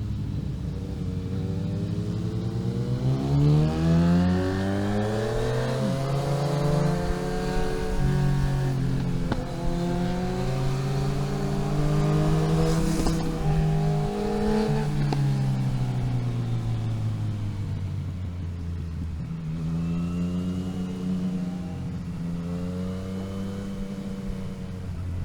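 Car engine being driven through the gears: its pitch climbs under throttle, drops sharply at gear changes, falls away as it slows after the middle and climbs again near the end.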